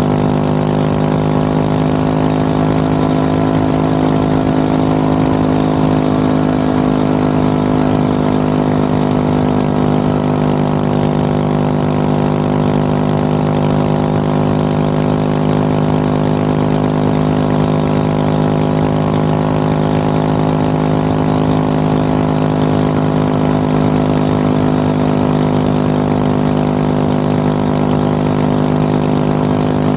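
Motorcycle engine running at a steady speed while riding, its exhaust note holding one pitch with no gear changes or revving.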